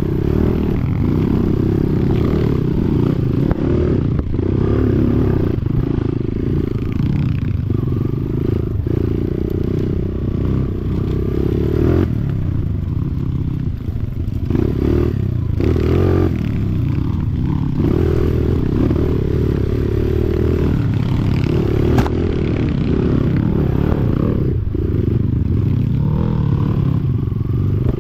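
Dirt bike engine running on a trail ride, the throttle opening and closing continuously, with a brief dip about fourteen seconds in.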